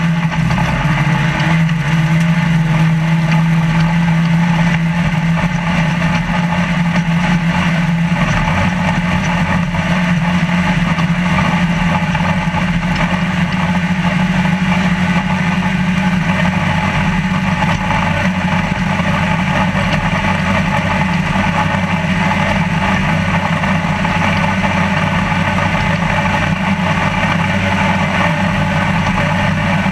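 Trophy Lite desert race truck's engine running steadily, heard from inside the cab along with a constant wash of chassis and terrain noise.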